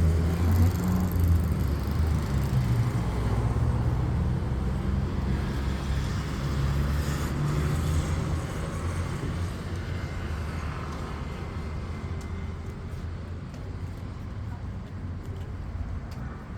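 Boeing 737-300 freighter's CFM56 jet engines, a low rumble that fades gradually as the aircraft moves away.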